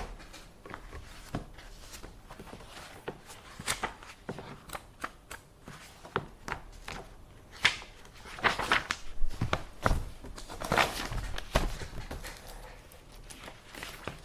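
Office desk sounds: paper handling and mouse clicking, heard as irregular small clicks and knocks with longer rustling bursts about eight and ten seconds in.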